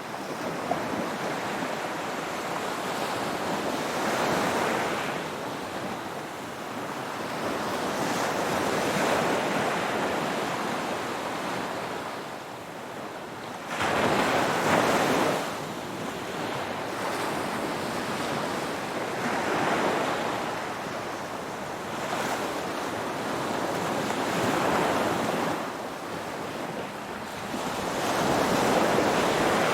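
Ocean waves breaking and washing on the shore, the surf swelling and ebbing every few seconds with one sharper, louder break about halfway through.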